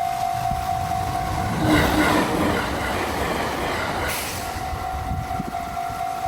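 A train running through a Japanese level crossing, its wheels rumbling on the rails, while the crossing's warning bell rings its steady kan-kan. The bell drops out from a little after one and a half seconds until past four seconds, with a louder noisy stretch and a brief low tone about two seconds in.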